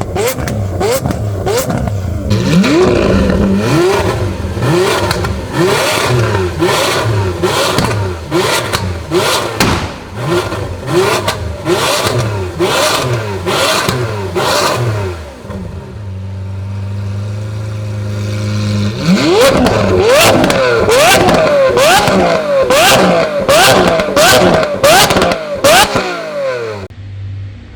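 Lamborghini Aventador naturally aspirated V12 through a high-pitched aftermarket Brilliant exhaust, revved over and over in quick stabs with sharp pops between them. Partway through it settles briefly to idle, then revs in rapid blips again until it cuts off near the end.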